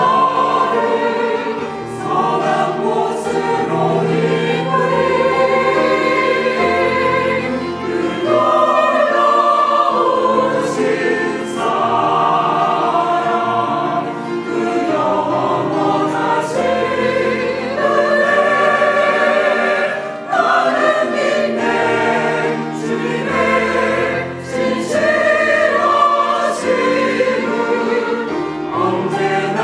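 Church choir singing an anthem in several-part harmony, over an accompaniment of held bass notes.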